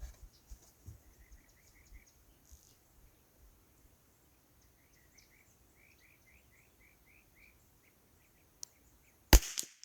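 A single .22 rimfire rifle shot near the end, sharp and loud, after a stretch of faint background with short runs of high chirps.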